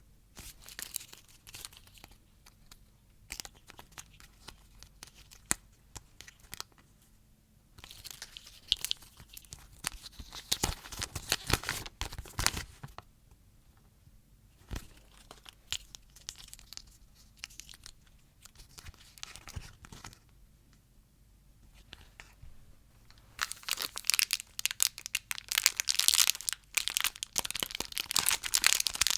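Crinkly plastic lollipop wrappers being torn and crumpled, in crackling bursts with a few single clicks between them; the loudest stretch is near the end.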